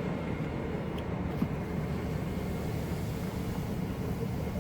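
Steady rumble and hiss of airliner cabin noise aboard a Boeing 747-400, with a couple of faint clicks about a second in.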